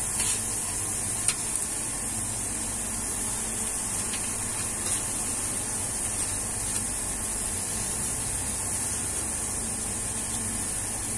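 Beef smash burger patties, an egg and a slice of luncheon meat sizzling steadily on a flat-top griddle. There are a couple of light knocks of the metal spatula in the first second and a half.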